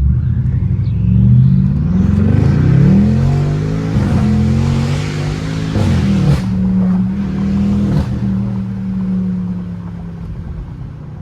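BMW 550i's V8, running catless downpipes and a straight-piped exhaust, accelerating hard with the revs climbing twice in quick succession. The revs drop sharply about six seconds in, then hold steady and ease off near the end.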